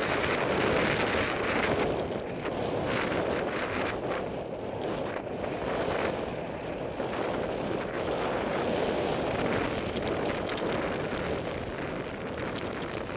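Wind rushing over the camera microphone at speed on a mountain-bike descent, with steady tyre rumble on the dirt trail and scattered sharp clicks and rattles from the bike.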